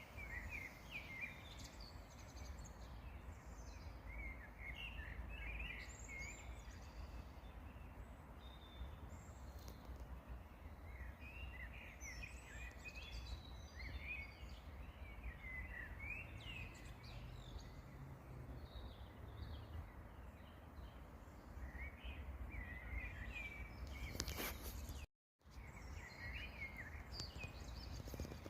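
Wild songbirds chirping and singing in short scattered phrases over a steady low background rumble. Near the end the sound cuts out completely for a moment.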